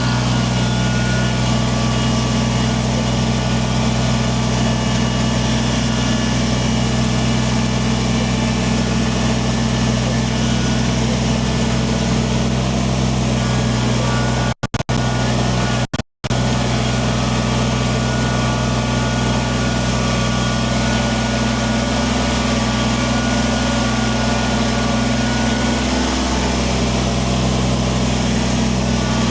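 Kubota compact tractor's diesel engine running at a steady speed while grading stone with the front loader. The sound cuts out briefly twice about halfway through.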